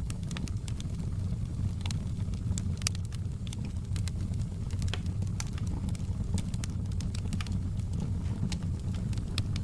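Wood fire in a fireplace crackling: frequent sharp pops and snaps at irregular intervals over a steady low rumble.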